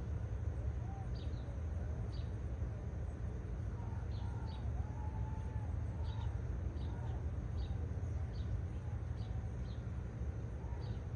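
Small birds chirping, short sharp high chirps coming irregularly about once or twice a second, over a steady low hum.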